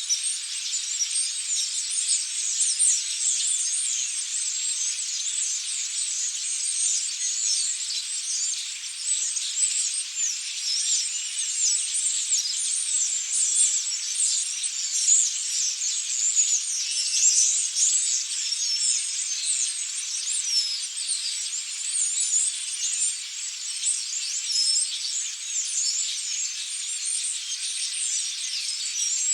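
A large flock of European starlings chattering: a dense, unbroken mass of many overlapping high squeaks and short falling whistles.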